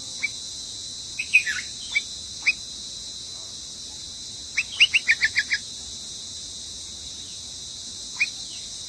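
Baby bird chirping: short, falling chirps, scattered singly, with a quick run of about six near the middle, over a steady high hiss.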